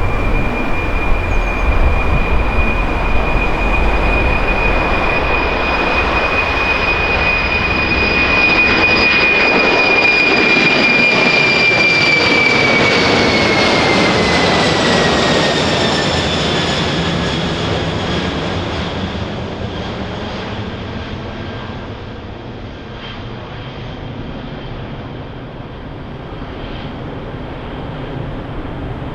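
Boeing 747-400ERF freighter departing under full power, its four turbofan engines giving a deep rumble with a strong high fan whine. About twelve seconds in, the whine slides down in pitch as the jet passes, and the sound then fades away.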